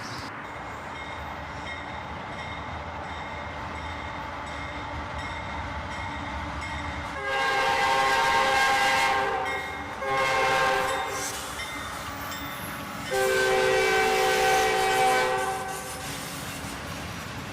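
Multi-chime air horn of an approaching freight locomotive, the lead CSX AC4400CW, sounding three blasts: long, short, then long. Under them runs the steady low rumble of the oncoming train.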